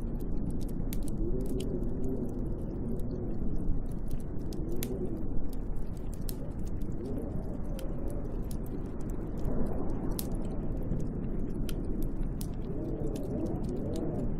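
Snowstorm wind gusting against a cabin window: a steady low rumble with a howl that rises and falls in pitch. Scattered sharp crackles and ticks run through it.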